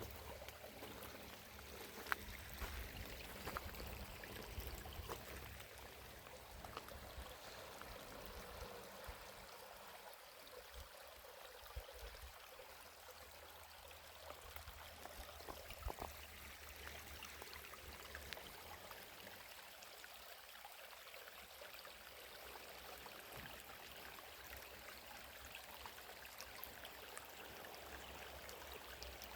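Faint, steady running water, like a small stream, with a few soft clicks.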